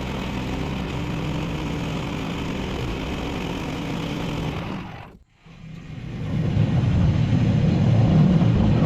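Portable bandsaw sawmill's gas engine running steadily. About five seconds in, the sound drops away almost to nothing, then returns louder and rougher.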